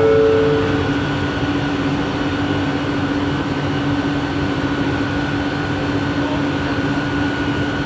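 Inside a Bombardier Innovia ART 200 train car: a steady whine of two held tones, one low and one high, over a rumbling running noise, with no change in pitch.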